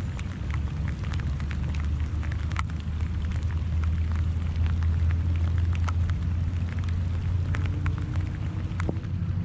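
Rain falling, with many individual drops tapping close to the microphone as scattered sharp ticks over a steady low rumble.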